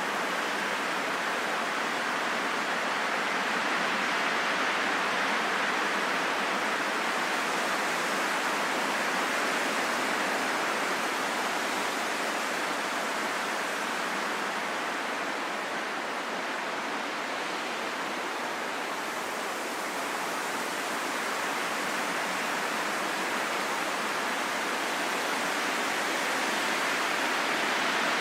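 Steady rushing wind, an even hiss that slowly swells and eases over many seconds.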